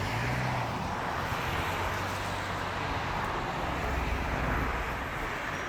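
A vehicle running steadily, with a low engine hum under road and wind noise.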